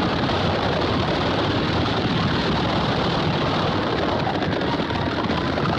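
Horses galloping and a stagecoach rolling fast: a steady, dense rumble of hooves and wheels.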